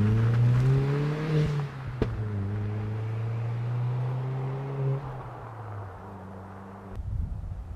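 A 2001 VW Jetta's 1.8-litre turbo four-cylinder, breathing through a 3-inch turbo-back exhaust necked down to a 2.5-inch tip, accelerates with its engine pitch rising. After a sharp click about two seconds in, it runs at a steadier note that fades as the car pulls away. A low rumble sets in near the end.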